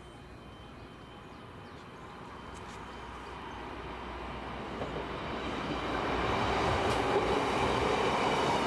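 A diesel train approaching on the line, its running noise growing steadily louder throughout.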